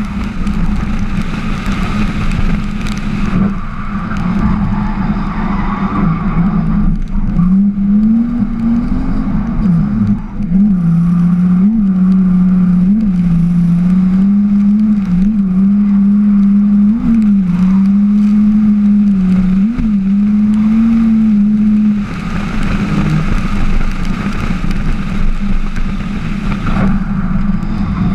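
Drift car's engine running hard at fairly steady high revs, the note flicking up and dropping back every second or two as the throttle is worked, with road and wind noise under it. About six seconds before the end the engine note eases off and the road and wind noise comes up.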